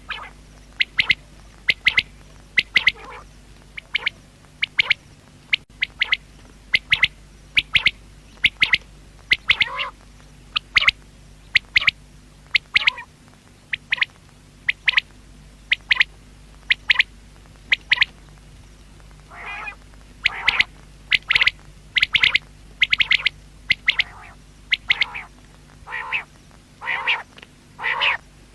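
Common quail calling: a rapid, repeated series of short, sharp notes, roughly two a second. A few longer, lower calls come in the later part.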